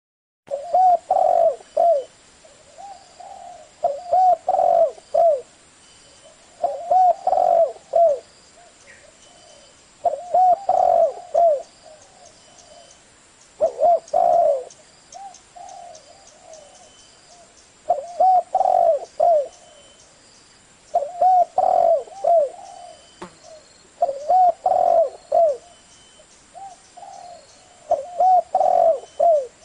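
Spotted dove cooing: a short phrase of several low coo notes repeated about every three to four seconds, nine times, in the deep 'thổ' voice.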